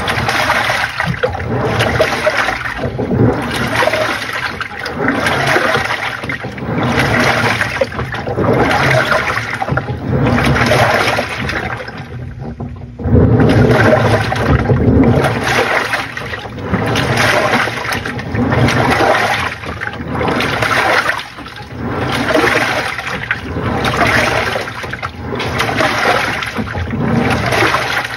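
Panasonic NA-FA80H8 top-loading washing machine agitating a load in water: the pulsator churns the laundry and water sloshes in surges about every two seconds, with a brief pause about twelve seconds in.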